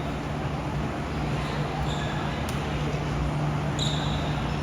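Gym ambience at an indoor volleyball match: a steady low hum under a murmur of background noise, one sharp knock about halfway through, and a couple of brief high squeaks.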